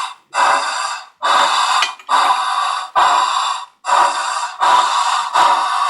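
Simulated steam-exhaust chuffs from a WOWSound steam version 4 sound decoder through a 28 mm high-bass speaker in a model Challenger locomotive: hissing puffs about one a second, coming closer together near the end. The beats are uneven because the articulated locomotive's two engines are slightly out of sync.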